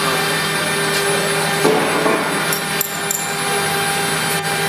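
CNC router spindle running steadily as it engraves, with a steady mechanical hum and cutting noise. A few sharp clicks about one and a half, three and four and a half seconds in.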